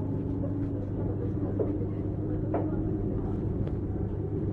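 JR 455-series express-type electric multiple unit running, heard from inside the car: a steady low rumble of wheels and running gear with a faint steady tone over it and a few light clicks.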